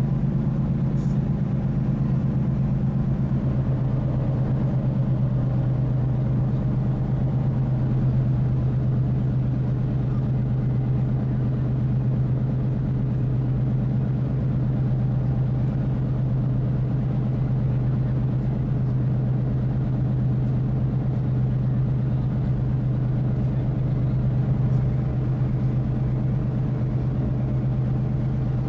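Ferry's engines and machinery running, heard on board as a steady low drone with a few faint steady tones above it.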